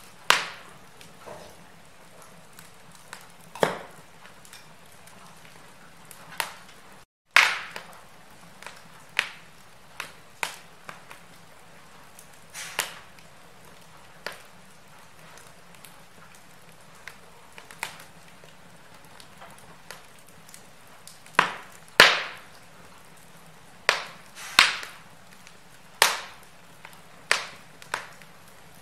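Wood fire crackling: irregular sharp pops and snaps over a faint steady hiss, with the loudest pops a little past the middle. A brief gap of silence about seven seconds in.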